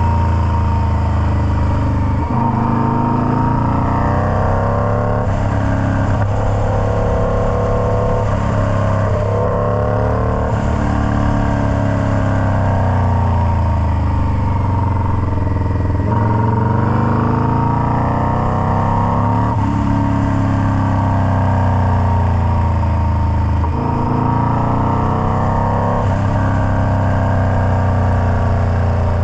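Indian Scout Bobber's V-twin engine running loud through a Freedom Performance Combat 2-into-1 exhaust. Its pitch rises and falls again and again, every few seconds, as the revs climb and drop. A steady high whine runs underneath.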